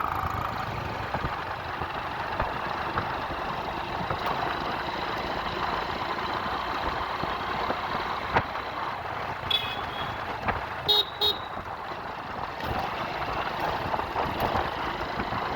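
Steady road and traffic noise heard from a bicycle, with a vehicle horn tooting briefly about two-thirds of the way in and twice more shortly after.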